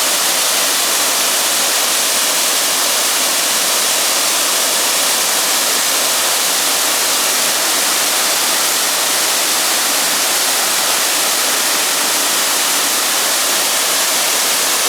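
Waterfall: a steady, loud rush of falling water, an even hiss with no breaks.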